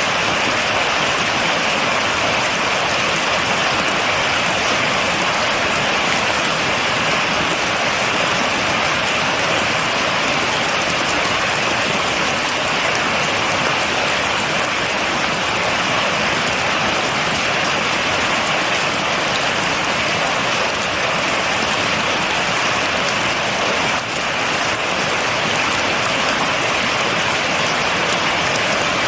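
Steady, heavy rain falling, an even hiss with fine pattering of drops and no thunder.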